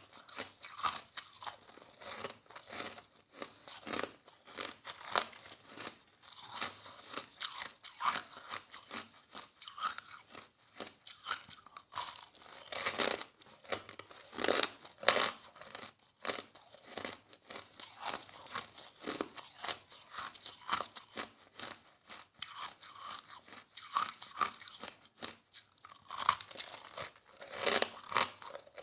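A person chewing crushed ice, a dense run of irregular crunches several times a second.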